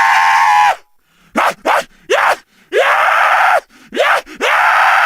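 Monster scream sound effects. A long, high, held scream cuts off under a second in, then a rapid run of about seven short screams follows, each jumping up in pitch at its start.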